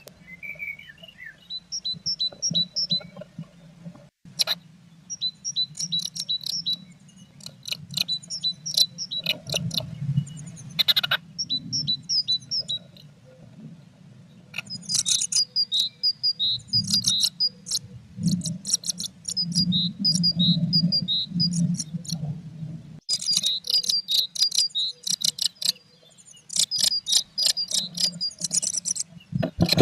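Blue tits giving high, thin chirping calls in rapid runs and repeated bursts, over a steady low rumble.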